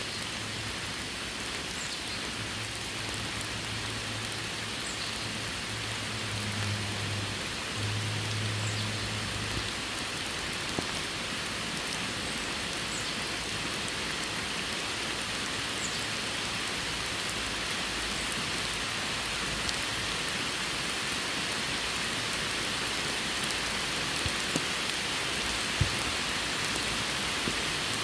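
Steady rain falling, with a few louder single drops standing out. A low steady hum sits underneath for about the first ten seconds, then fades.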